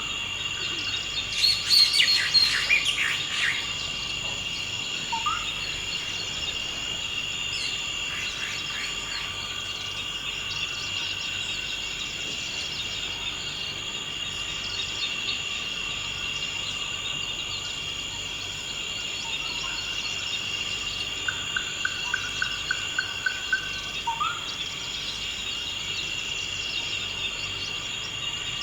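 Forest ambience: a steady, unbroken insect chorus with birds calling over it. A burst of bird song comes shortly after the start, a few short rising whistles are scattered through, and about two-thirds of the way in a bird gives a quick run of about eight even notes.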